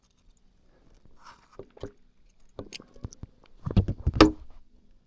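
Scattered clicks, knocks and rustles of hands handling a freshly caught largemouth bass and working the lure out of its mouth, with a louder cluster of knocks about four seconds in.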